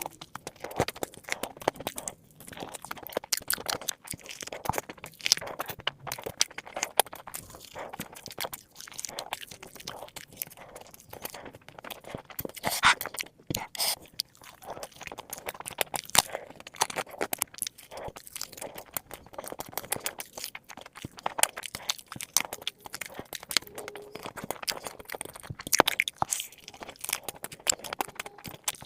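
Close-miked crunching and chewing of crispy fried chicken drumsticks: repeated bites into the crunchy coating with irregular sharp crackles and wet chewing.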